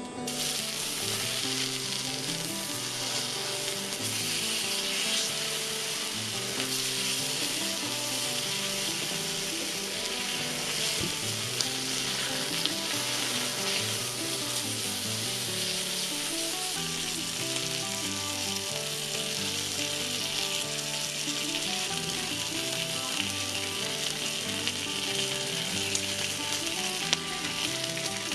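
Meat sizzling steadily in a hot pan, with a few sharp pops of spattering fat, over quiet background music.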